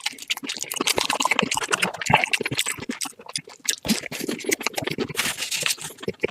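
Close-miked eating sounds: fast, dense crunching, chewing and smacking, sped up.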